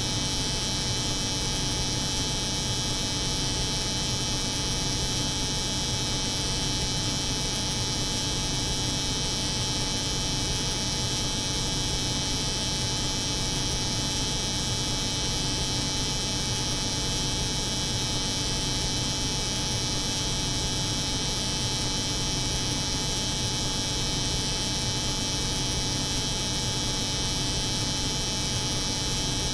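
Layered steady drone of a cold room's refrigeration hum and an electric hair clipper's buzz, with a high hiss over it, unchanging throughout.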